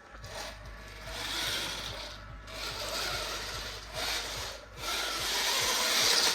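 Toy RC stunt motorcycle driving on a hard floor: its tyres scrubbing and small electric motor whirring in three surges of about two seconds each.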